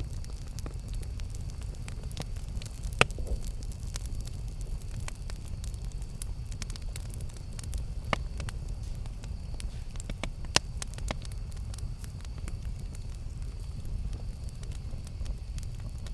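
Campfire burning with a steady low rumble and scattered crackles and pops. The sharpest pops come about three, eight and ten and a half seconds in.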